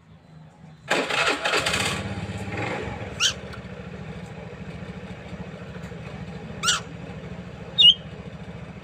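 A small engine starts about a second in with a loud burst, then settles to a steady pulsing idle. Three short bird chirps cut in over it.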